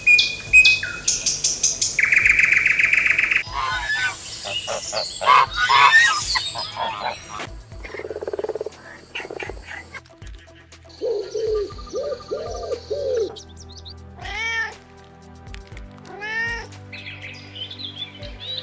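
A run of different animal and bird calls edited one after another, changing every few seconds, over faint background music.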